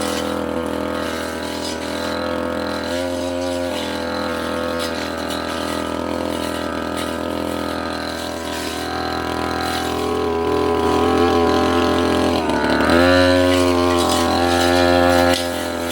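Two-stroke brush cutter engine running steadily at high speed while cutting brush, its pitch dipping briefly and rising again about thirteen seconds in.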